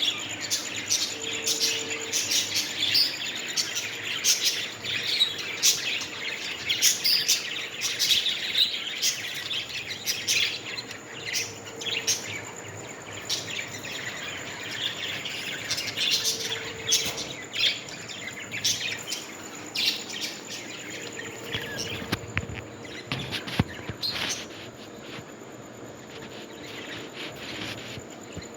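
A group of small pet parrots chirping and chattering continuously with many sharp, high calls, thinning out over the last several seconds. A faint steady high tone runs underneath.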